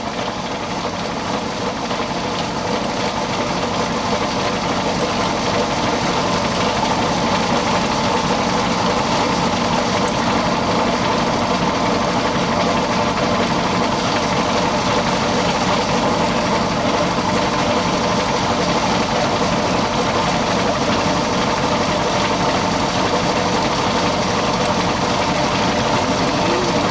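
An engine running steadily, growing a little louder over the first few seconds and then holding level.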